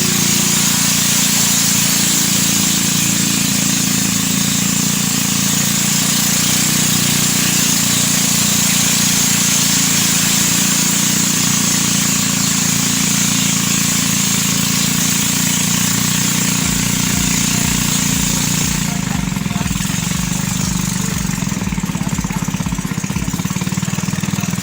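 A small engine running steadily while under way, over a strong rushing hiss of wind and travel noise. About two-thirds of the way through, a slower low throbbing comes in and the high hiss fades, as if the vehicle is easing off.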